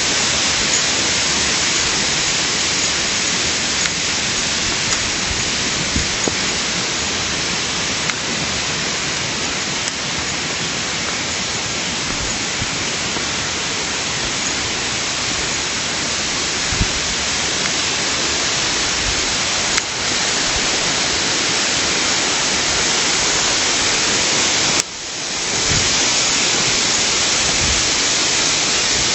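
Steady rush of flowing stream water, loud and even, with a brief sudden dip about 25 seconds in before it carries on unchanged.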